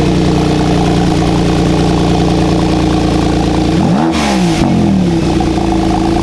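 A Porsche Turbo S engine idling just after start-up, with one quick rev blip about four seconds in that rises and falls back to a steady idle.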